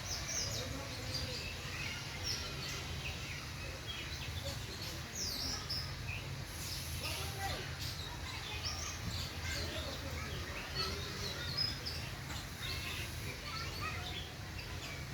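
Many small birds chirping and twittering together: a dense chorus of short, high chirps overlapping throughout, over a steady low background rumble.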